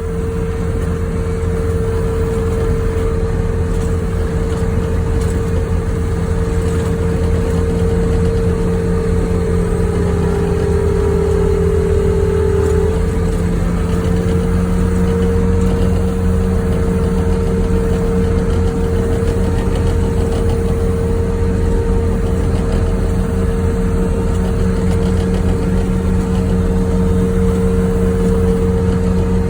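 Wheel loader's diesel engine running steadily while driving along the road, with a steady whine over the engine note; the pitch dips for a few seconds about ten seconds in and comes back up slightly around thirteen seconds.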